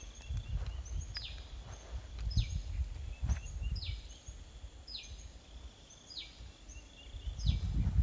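A bird calling over and over: one sharply down-slurred high note, about once a second, over a low, uneven rumble.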